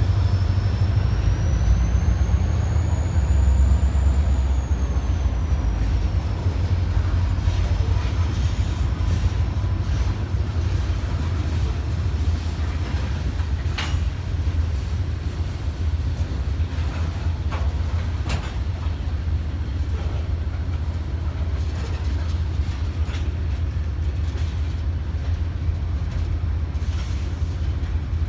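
A train running by with a steady low rumble, a thin high whine that rises and then falls over the first several seconds, and a few sharp clicks later on.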